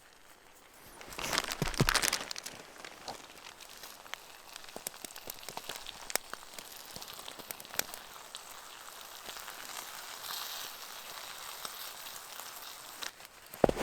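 Food frying over a wood-chip camp stove: a steady sizzle dotted with many sharp crackles, after a louder rush of sizzling about a second in, and a single sharp knock at the very end.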